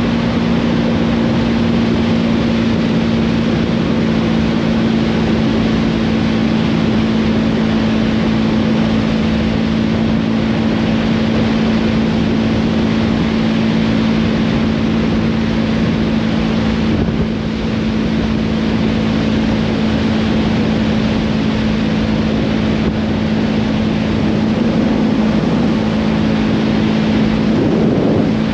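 Motorcycle engine running at a steady cruising speed, its pitch holding level, with wind rushing over the microphone.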